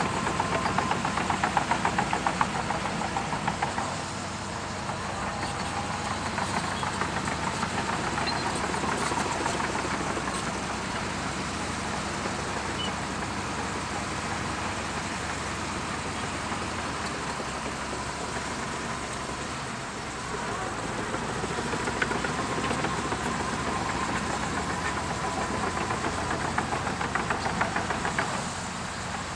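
Bulldozer's diesel engine running under load with a rapid pulsing beat. It is louder for the first few seconds, eases off for a while, then works harder again in the second half.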